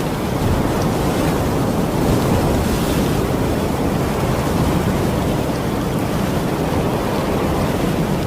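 Steady heavy rain: a dense, even rushing noise with no let-up, deepest in the low range, with a few faint ticks of drops here and there.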